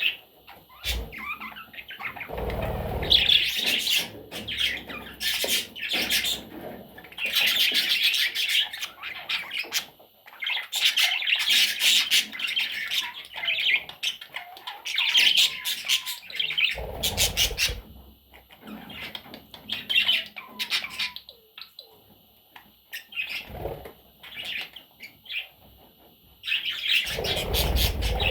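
Budgerigar chattering and warbling in bursts of quick chirps and squawks, with short pauses between bursts.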